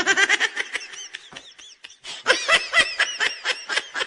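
High-pitched laughter in rapid short bursts, easing off about a second in and picking up again loudly after two seconds.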